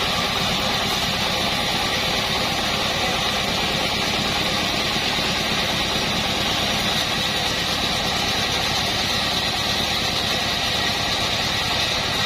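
Assembled band sawmill running steadily, its drive engine and band blade giving a constant mechanical din with a steady high whine over a low rumble.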